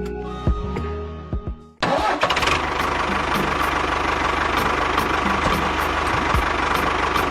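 Background music with steady tones, then about two seconds in a small engine starts abruptly and keeps running with a fast, even firing rhythm.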